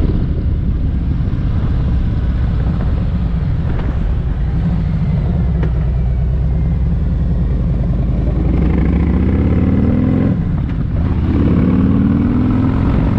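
2018 Harley-Davidson Street Glide Special's Milwaukee-Eight 107 V-twin running through a Tab Performance exhaust while riding. Late on it revs up, dips sharply at an upshift just past ten seconds in, then pulls up in pitch again.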